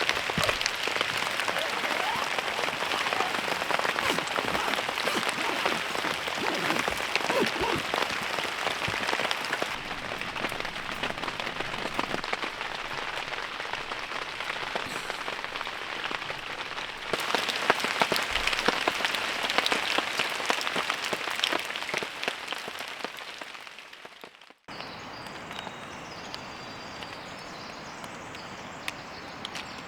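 Heavy rain falling, a dense patter of many drop strikes. It fades out about four-fifths of the way through, giving way to a quieter, steady background.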